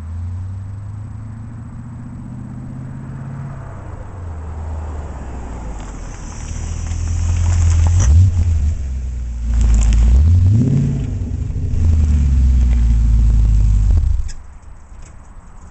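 BMW 840Ci's V8 running through a stainless steel exhaust, revving up and easing off several times with a rising pitch. It is loudest in the second half and drops away abruptly near the end.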